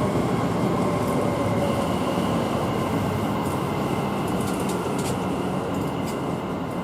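A Class 730 electric multiple unit running through the station: a steady train rumble that eases slightly toward the end, with a few faint clicks.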